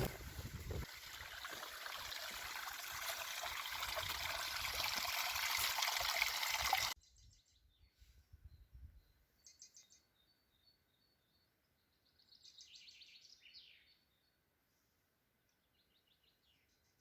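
A steady rushing noise, like running water, grows louder for about seven seconds and then cuts off suddenly. After it, birds sing quietly in short trills and chirps.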